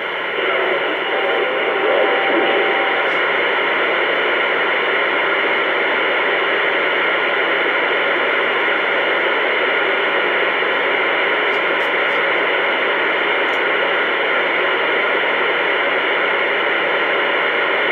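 CB radio static: a steady, loud hiss of an open channel over the radio's speaker, with a faint tone and murmur in the first couple of seconds.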